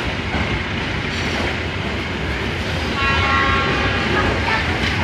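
Passenger train coaches rolling past a station platform, a steady rumble of wheels on rail. A brief horn-like tone sounds about three seconds in.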